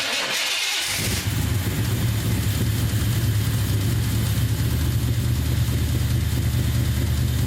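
Small-block Chevy V8 with Holley Sniper EFI, running with its valve covers off: the sound comes in suddenly and settles into a steady low drone after about a second. The owner suspects a bad rod bearing behind a tick or knock in this engine.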